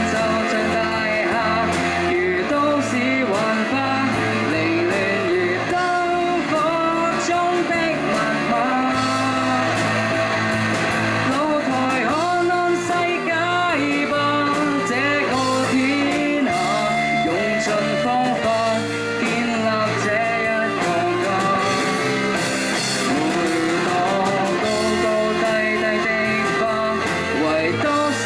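Live pop-rock band performing a song, with a sung melody over guitar, bass and drums.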